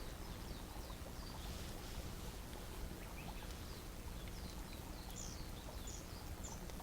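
Small birds chirping faintly, in short scattered calls that grow busier in the second half, over a low steady background rumble.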